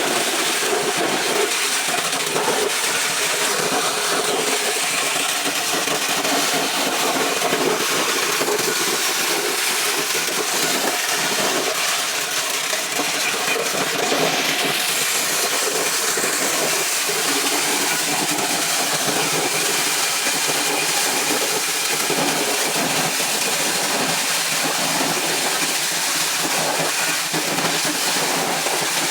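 Motor-driven corn sheller starting and running steadily, making a loud, even noise.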